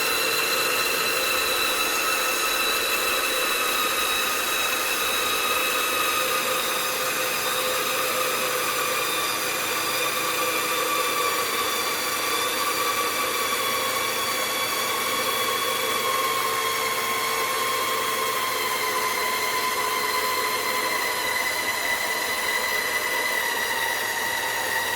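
CaDA M geared motor running steadily with a whine whose pitch slowly drops as it slows under a torque load.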